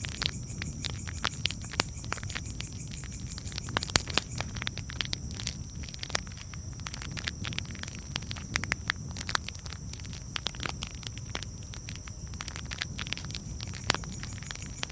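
Wood campfire crackling, with many irregular sharp pops and snaps over a steady low rumble and hiss.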